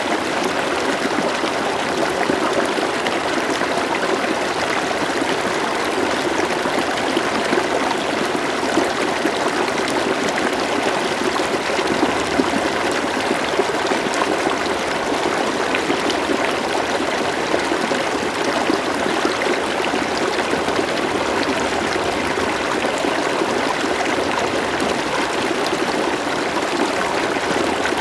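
River water flowing steadily, a constant rush with small trickling splashes.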